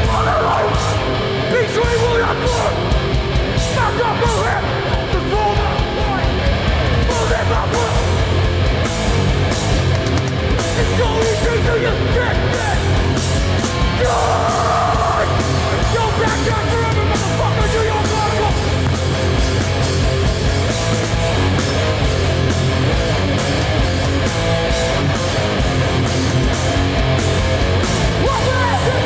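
Live hardcore punk band playing at full volume: distorted electric guitars, bass and pounding drums with crashing cymbals, under shouted vocals.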